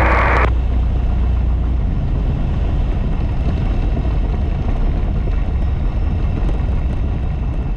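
Piper PA28's piston engine running at low taxi power, a steady low drone, with a radio transmission cutting off about half a second in.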